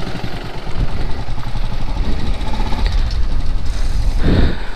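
Royal Enfield's single-cylinder engine running as the motorcycle rides slowly over a rough dirt lane. Near the end a short, louder sound slides down in pitch.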